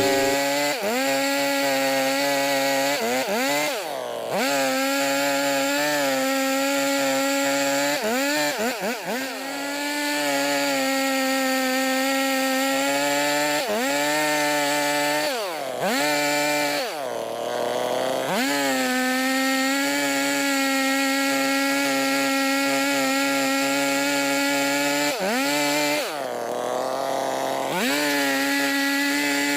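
Chainsaw running at high speed while cutting logs for firewood. Its pitch sags several times as the chain bogs down in the wood, then climbs back.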